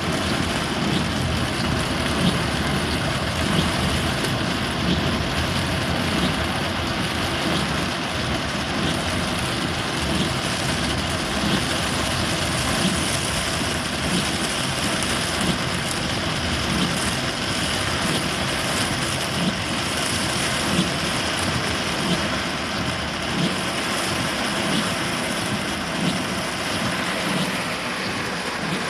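Torrential rain pouring down, a loud, steady, dense hiss.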